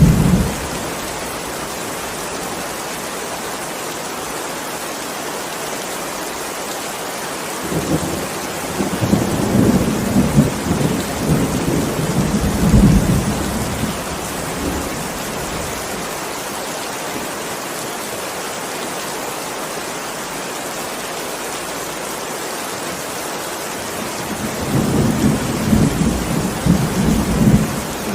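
Steady heavy rain with thunder rumbling over it: a rumble right at the start, a long rolling one from about 8 to 15 seconds in, and another near the end.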